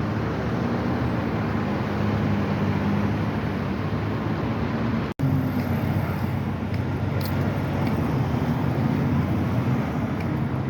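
A car driving, with steady engine hum and road noise. It cuts off for an instant about five seconds in, then carries on.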